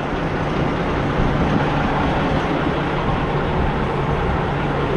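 Semi-truck's diesel engine running steadily, a constant low hum under an even rush of noise.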